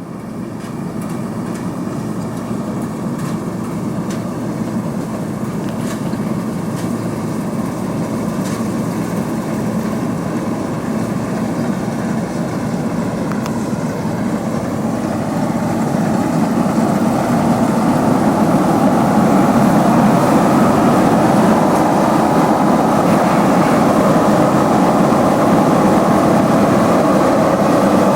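Diesel engine of harvest farm machinery running steadily. It grows louder over the first fifteen seconds or so, then holds level.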